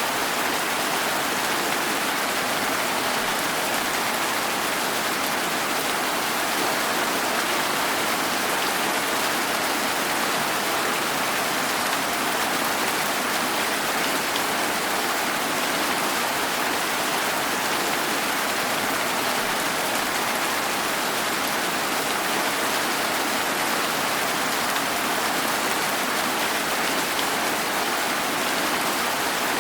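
Steady rain falling as an even, unbroken hiss of countless drops, with no let-up or gusts.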